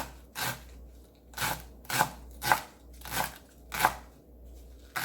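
Kitchen knife slicing green garlic thinly on a cutting board: separate sharp chops about every half second to a second, with a pause about four seconds in.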